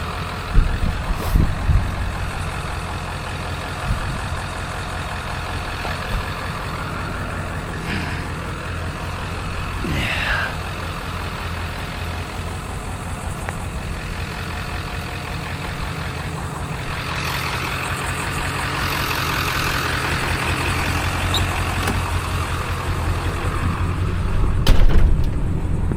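A vehicle's engine running with road noise, a steady low rumble, with a few knocks in the first two seconds and a louder surge near the end.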